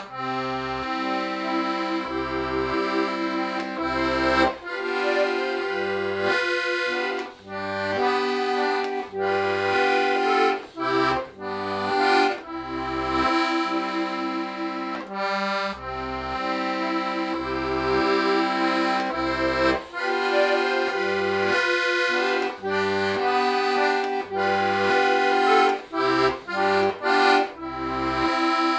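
Club IIB diatonic button accordion playing a slow, calm folk melody over sustained chords, with bass notes sounding on and off beneath.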